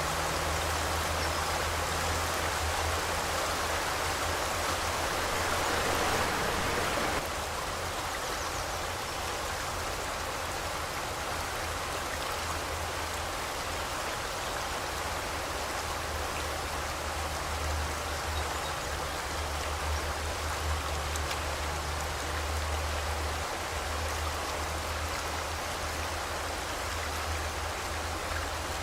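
River water rushing and splashing, a steady even noise. About seven seconds in it steps down slightly in level and brightness.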